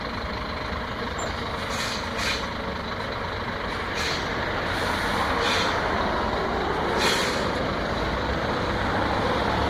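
A Scania truck running at low speed while it is being parked, with about five short hisses of compressed air from its air brakes.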